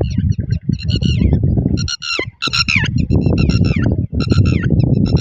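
Killdeer calling: quick series of short, high, slightly falling peeps repeated throughout, over a loud low rumble of noise.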